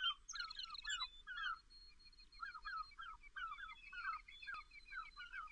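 Small birds chirping and singing: a steady run of short rising and falling notes, several a second, with a single sharp click about four and a half seconds in.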